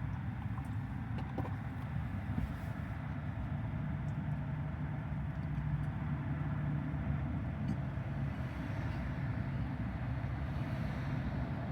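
Steady low road and tyre rumble inside the cabin of a moving Tesla Model Y, an electric car with no engine note.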